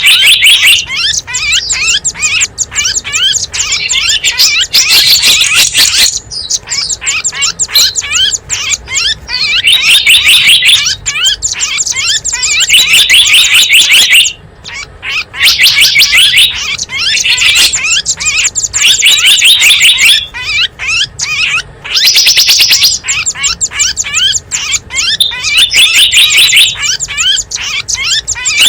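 Recorded chirping of small wild birds played as a bird-lure call: dense, rapid, high-pitched chirps and twitters in phrases of a few seconds with short breaks between them.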